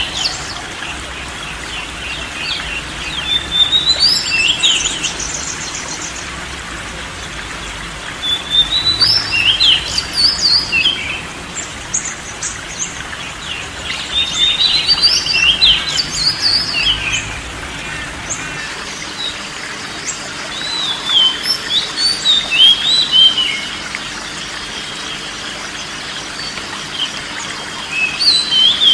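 A songbird singing in bouts of quick, varied whistled notes, high-pitched and sliding up and down, each bout lasting a couple of seconds with pauses of a few seconds between, over a steady background hiss.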